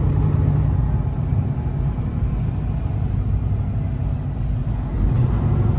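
Semi truck's diesel engine and road noise heard inside the cab, a steady low drone that eases slightly in the middle and picks up again near the end.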